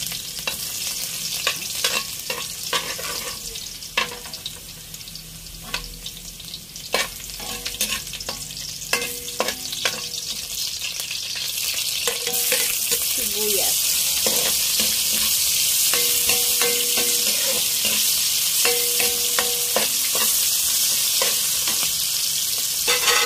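Minced garlic sizzling in hot oil in a steel wok, with a metal spatula clicking and scraping against the pan. About halfway through, the sizzle turns suddenly louder and denser as sliced onions go into the oil.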